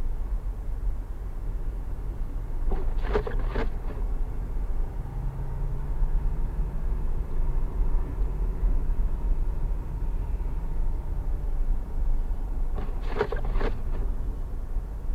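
Steady low road and engine rumble heard inside a moving car's cabin on the highway. A short cluster of clicks comes about three seconds in, and again near the end.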